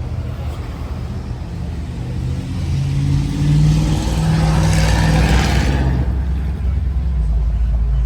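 A car engine at a car meet swells louder and then fades, loudest about four to five seconds in, over a steady low engine rumble.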